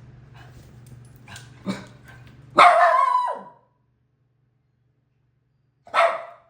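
A dog barking twice at a pet parrot perched out of its reach. The first bark, about two and a half seconds in, is the louder and longer one; the second comes near the end.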